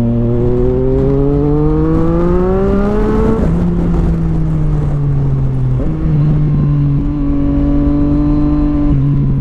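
Sport motorcycle engine accelerating, its pitch rising for about three seconds until a gear change drops the revs. It then runs on at slowly falling revs, with a few sudden jumps in pitch about six to seven seconds in and again near the end.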